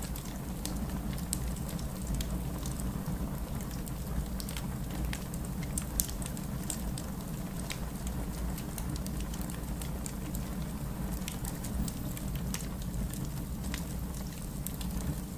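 Wood fire crackling in a fireplace: a steady low rumble of burning with frequent irregular sharp pops and snaps, one louder pop about six seconds in.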